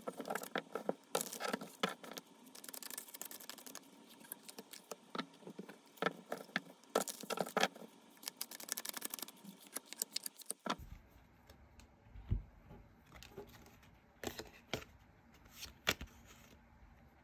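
Tarot cards being shuffled and handled, a dense run of quick clicks and papery slides. About 10.7 s in, a low rumble comes in underneath and the card clicks become fewer and more separate.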